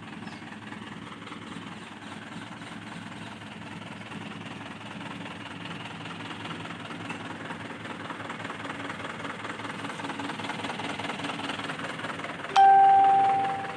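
Eicher 11.10 truck's diesel engine idling with a steady clatter during engine decarbonising. Near the end a loud single-pitched tone sounds suddenly and fades out.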